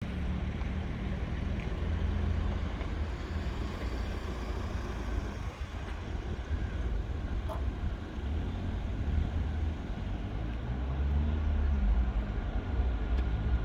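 Low steady rumble of vehicles, growing a little louder near the end as a faint steady whine comes in.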